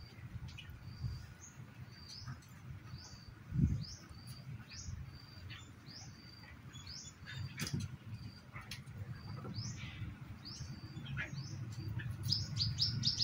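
Small birds chirping: a short rising chirp repeated roughly once a second, turning into a quick flurry of chirps near the end. A single thump about three and a half seconds in, over a low rumble.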